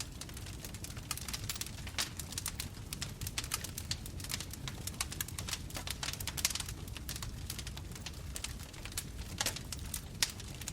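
Wood fire burning: a steady low rumble of flames with dense, irregular crackles and sharp pops from the burning wood.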